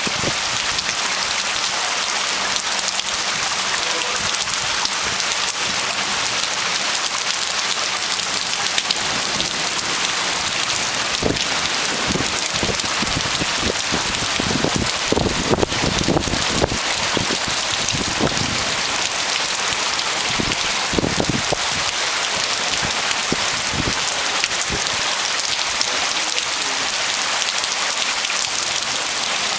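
Heavy rain falling steadily, a dense even hiss of drops on surfaces. Through the middle stretch a series of short low thumps sounds under the rain.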